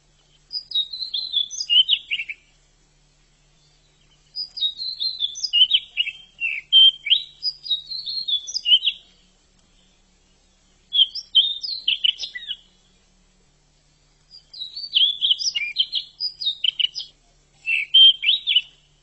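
Pied bushchat (decu) singing: five bursts of quick, chirpy warbled notes, each one to four seconds long, with pauses of a second or two between them.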